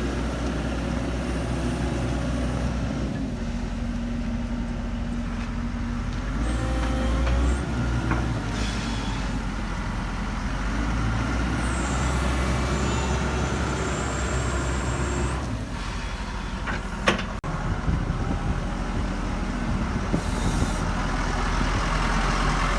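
Diesel engine of a Samsung SE130W-2 wheeled excavator (a 99 hp Cummins) running, its tone and load shifting several times as the machine works. A sharp click about 17 seconds in.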